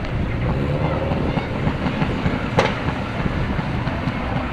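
Aerial fireworks going off in a continuous dense rumble of many overlapping bursts, with one sharp crack a little after halfway.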